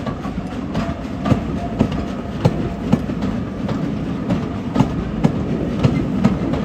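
Railway train running over jointed track: a steady rumble with sharp wheel clicks at the rail joints, roughly two a second.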